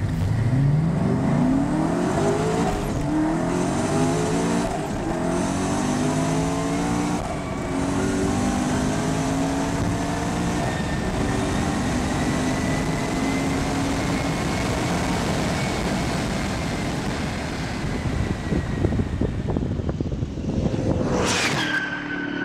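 Hennessey Venom GT's twin-turbo V8 at full throttle from a standing start, climbing in pitch through the gears with a short break at each upshift, about four times, then holding a steady high note at speed. Near the end comes a sharp, loud sweep in pitch.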